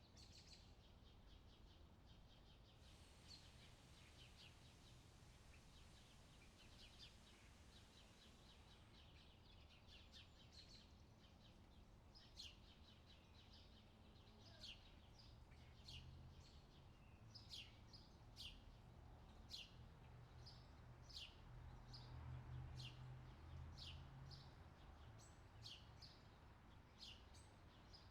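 Faint outdoor summer ambience: birds chirping over a low background rumble, with a run of short, sharp chirps about one a second from roughly halfway through.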